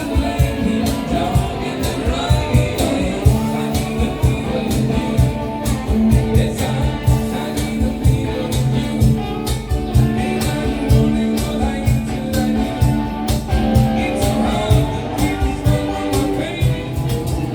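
Live rock band playing: guitar and bass over a steady drum-kit beat.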